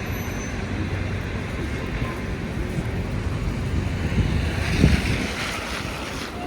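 Steady street ambience of traffic passing on a snowy road, with wind buffeting the microphone; the noise swells louder about five seconds in.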